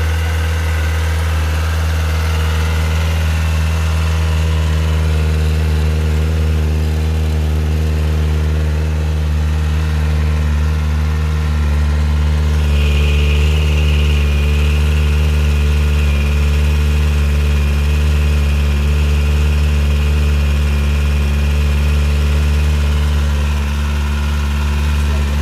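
Kawasaki Ninja ZX-4R's 399 cc inline-four idling steadily after a cold start, its exhaust note even and unchanging. About halfway through, a high whine joins in and the sound gets a little louder.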